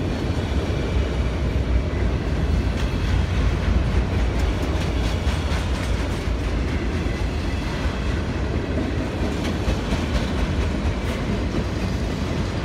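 Norfolk Southern freight train's cars rolling past: a steady, heavy rumble of steel wheels on rail, with the clicking of wheels over rail joints.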